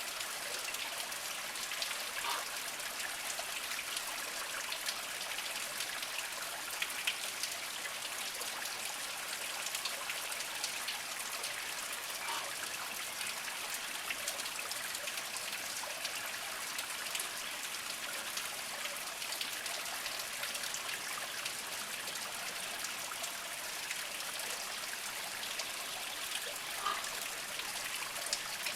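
Small mountain spring trickling over mossy rocks: a steady splashing hiss studded with many small drips and splashes.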